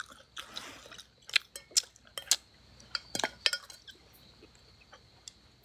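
A run of sharp, irregular clicks and clinks of small hard things being handled, thickest in the first few seconds and sparse later, over a faint steady high tone.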